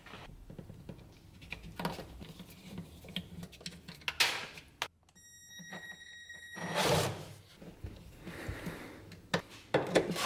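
A series of knocks and thuds with short bursts of scraping or rubbing noise. Partway through comes a high, steady beep lasting nearly two seconds.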